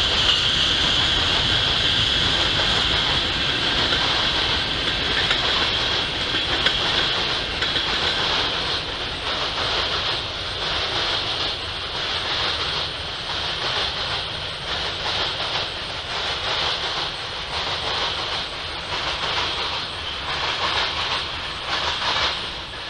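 BNSF freight train of covered hopper cars rolling past, with a steady high wheel squeal that fades. Then a regular clack of wheels over the rail joints, about once a second, which dies away just before the end as the last cars pull away.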